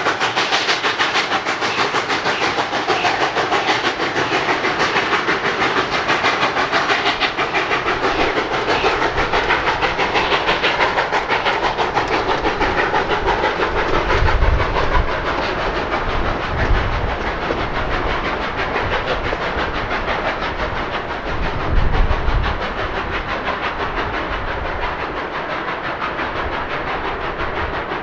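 Narrow-gauge steam train running, with steam hissing and a rapid, even rhythmic beat throughout. A few heavier low thumps come around the middle and near the end.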